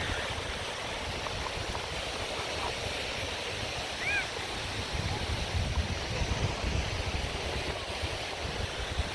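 Steady surf on a beach, with wind buffeting the microphone in a flickering low rumble. A single brief high chirp comes about four seconds in.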